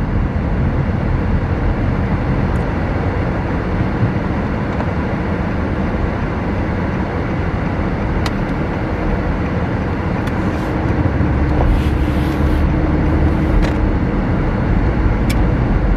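Road and engine noise heard inside a moving car's cabin: a steady low hum with a faint tone joining in for a few seconds past the middle.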